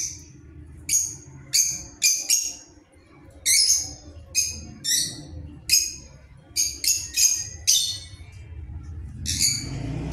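Small birds chirping: short, high chirps, one or two a second in loose runs, with a brief pause near the end.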